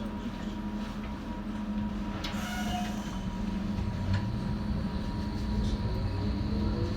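Inside a Docklands Light Railway train: a steady electric hum with a constant tone, a short sharp sound about two and a half seconds in, and near the end a rising motor whine as the train picks up speed.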